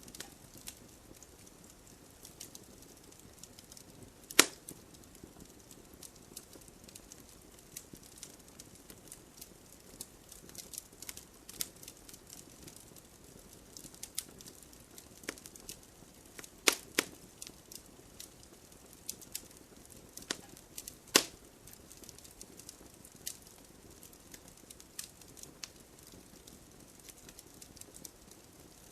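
Wood campfire crackling: irregular sharp pops and snaps over a faint hiss, with a few much louder pops about four seconds in and later around seventeen and twenty-one seconds.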